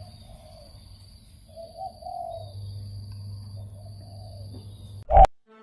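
Spotted dove cooing, three low coo phrases a second or so apart. About five seconds in, a single loud thump, then the sound cuts off.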